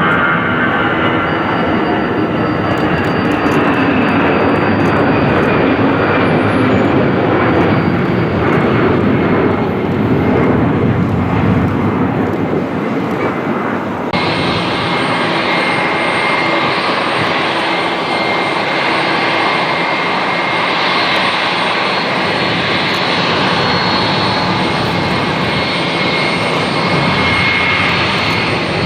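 Jet aircraft engines, loud: a rushing jet noise with a whine that falls slowly in pitch as the aircraft passes. About halfway through the sound changes abruptly to another steady jet noise with constant high whining tones.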